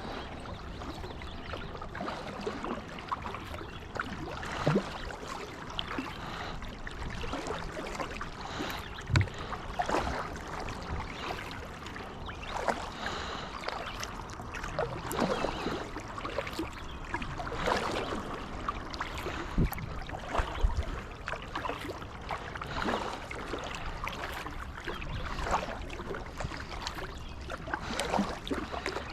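A small boat being paddled: irregular paddle strokes and water splashing and dripping, with occasional sharp light knocks.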